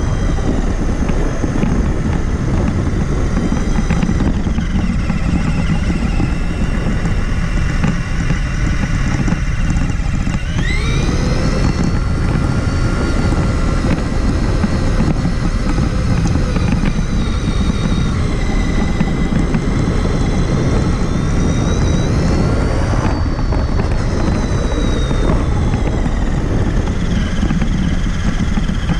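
Onboard sound of a Traxxas Summit 1/10 RC truck driving: its electric motor and drivetrain whine, rising sharply in pitch as it accelerates about ten seconds in and rising and falling again later, over a steady low rumble.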